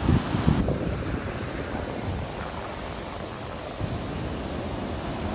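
Gulf of Mexico surf washing onto the beach, a steady wash of noise, with wind buffeting the microphone in low rumbling gusts for about the first half second.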